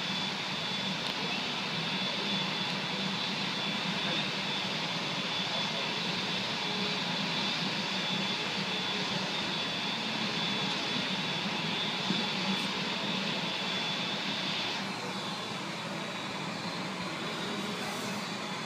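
Jet airliner running, heard as a steady rushing noise with a high whine that fades out about fifteen seconds in.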